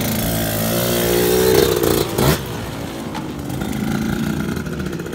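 Dirt bike engine revving, rising in pitch, then dropping sharply a little past two seconds in and settling to a lower, steadier note.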